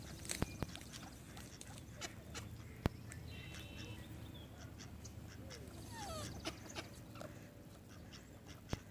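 Faint calls of birds being fed, a short high chirp and a couple of falling calls, among scattered small clicks and taps.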